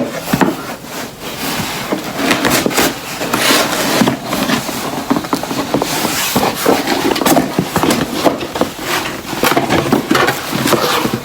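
A package being opened and unpacked by hand: irregular rustling, scraping and small knocks of cardboard and wrapping.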